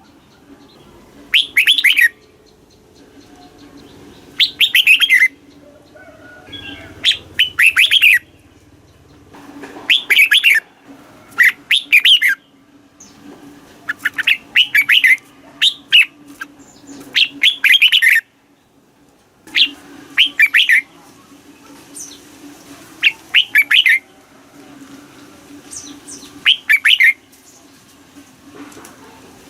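Red-whiskered bulbul singing its short song phrase over and over, about one phrase every two seconds, each a quick run of clear notes falling in pitch. A faint steady hum lies underneath.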